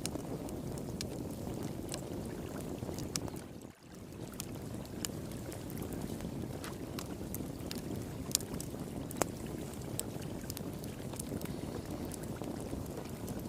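Fire pit crackling, with sharp scattered pops, over the steady rush of flowing water. The whole sound dips briefly a little under four seconds in.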